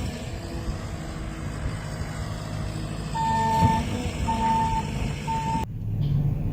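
A heavy vehicle's reversing alarm beeping three times, about once a second, over a steady low engine rumble. The beeping cuts off suddenly after the third beep.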